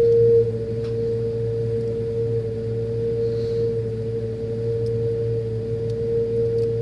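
Freezer making a loud, steady noise: a whining tone held at one pitch over a lower hum, a little louder in the first half second.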